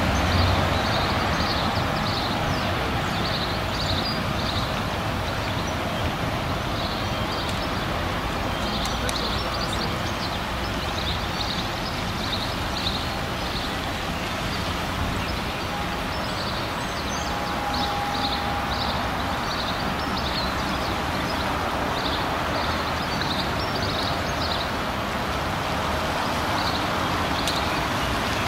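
Red Zillertal Railway narrow-gauge diesel railcar approaching slowly along the track, a steady running noise. Short high bird chirps come in little groups throughout.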